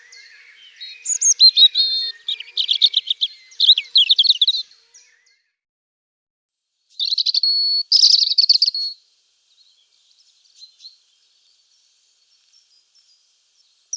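European robin singing: high, rapid warbling phrases, one run in the first few seconds and another about seven seconds in, with a long pause after it.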